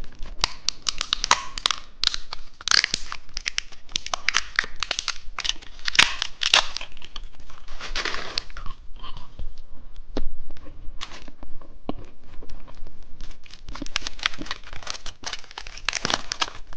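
Plastic candy wrapper being torn open and crinkled by hand, a dense run of sharp crackles and rustles.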